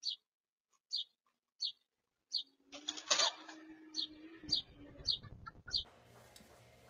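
A bird chirping over and over, one short high chirp roughly every two-thirds of a second, stopping shortly before the end. About three seconds in there is a brief louder noise and a low steady hum for about a second and a half.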